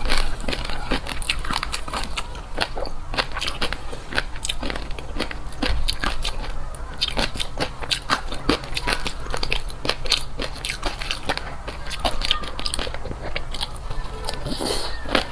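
Close-miked chewing of fish roe: dense, irregular popping and crackling as the roe pearls burst in the mouth.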